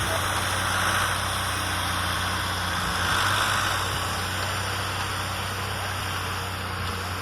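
Vehicle engine idling steadily: a low even hum under a constant hiss.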